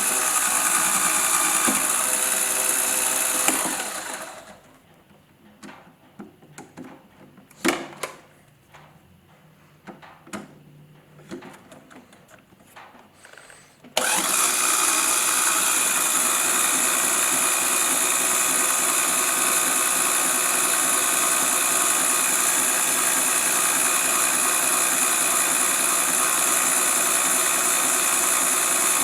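Two LEGO XL electric motors and their plastic gear train running with a steady geared whine. They stop about 4 s in, leaving a quiet stretch with a few clicks and knocks, then start abruptly about halfway through and run steadily to the end.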